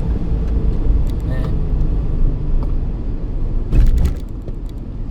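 Steady low rumble of a moving road vehicle, with a short knock just under four seconds in.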